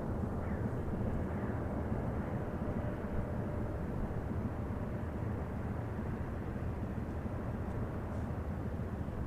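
Steady low rumble of an inland cargo barge's diesel engine running as the vessel passes.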